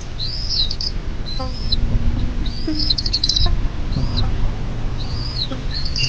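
High-pitched bird calls: short, arched, upward-then-downward notes repeated roughly once a second, one with a quick rattling flutter about three seconds in, over a steady low noise.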